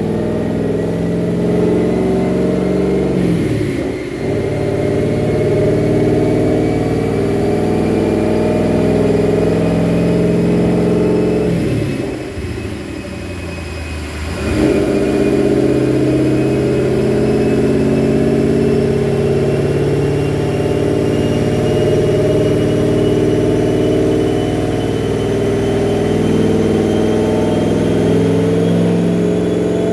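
Ford Mustang V8 running hard on a chassis dyno, with a thin whine that climbs slowly and steadily in pitch. The engine note dips briefly about four seconds in, and again for a couple of seconds around twelve to fourteen seconds in.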